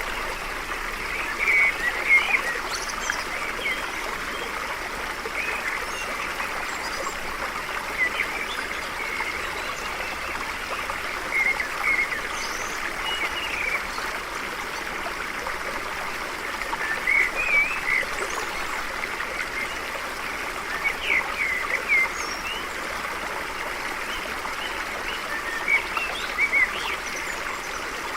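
A stream flowing steadily, with birds giving short chirps every second or two over the running water.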